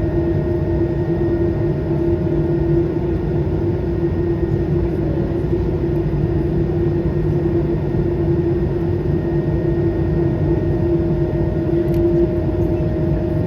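Airbus A220-300's Pratt & Whitney PW1500G geared turbofan engines running steadily, heard inside the passenger cabin as a constant loud rush with a few held steady hums.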